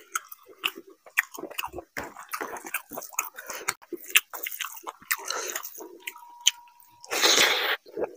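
Close-miked chewing and wet mouth sounds from eating rice with mutton curry by hand: smacking and squishy clicks, with fingers squeezing rice and gravy on the plate. About seven seconds in comes the loudest sound, a short breathy rush lasting under a second.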